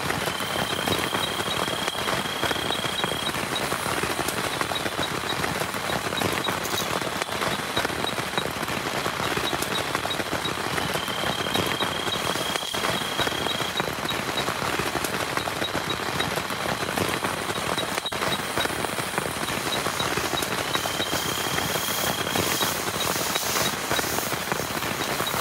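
Heavy rain falling steadily, a dense even patter. A faint high ticking runs through it, and three times a faint high whistle rises slightly and holds for two or three seconds.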